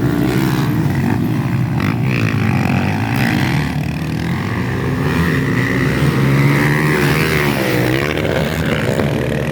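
Several motocross motorcycles racing on a dirt track, their engines revving up and down in overlapping pitches.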